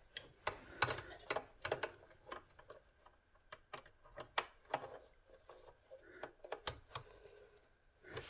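Irregular light clicks and taps of a small screwdriver and wire at a screw terminal, as a wire is fitted and screwed down. They come thickly for the first couple of seconds, then more sparsely.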